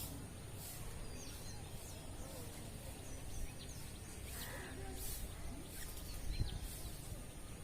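Scattered short bird chirps and calls outdoors over a steady low rumble, with a low bump about six seconds in.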